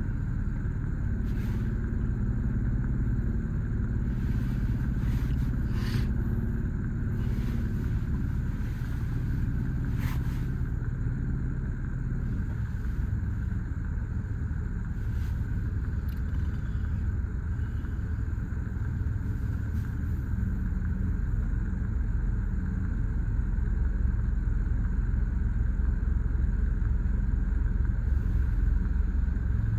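Car engine idling steadily, heard from inside the cabin while the car waits in traffic, with a few faint clicks early on.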